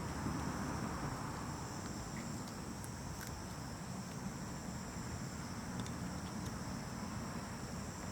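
Steady shrill insect chorus, two high continuous tones, over a low rumbling background with a few faint clicks.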